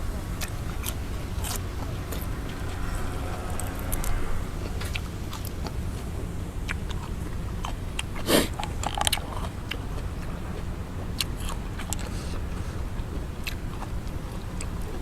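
Close-up eating sounds: biting, chewing and crunching with many scattered clicks, over a steady low rumble of wind on the microphone. One louder knock comes about eight seconds in.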